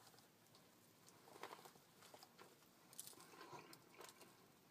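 Faint sounds of a man biting into and chewing a sub sandwich on garlic bread: a few soft crackles and mouth clicks, first about a second and a half in and again around three to four seconds in, with near silence between.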